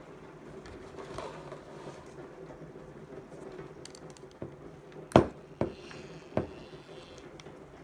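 Three sharp knocks in quick succession, the first the loudest, over a steady low hum, as of a hard object being set down or handled.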